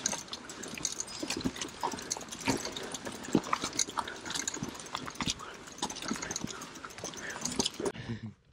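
Irregular clicks, knocks and crunches of a mountain bike and rider moving over a rough, stony trail.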